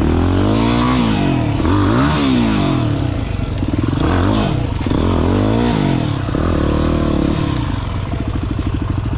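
Single-cylinder dirt bike engine revving up and dropping back over and over, with several rises and falls in pitch, as the bike is worked slowly up a steep, rough climb. Light clattering and scraping runs underneath.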